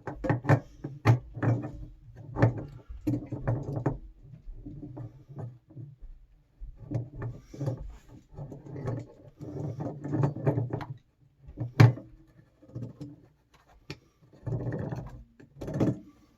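Irregular knocks, clicks and clunks of hand tools and parts being handled at a water heater's element port, with a stretch of scraping near the end.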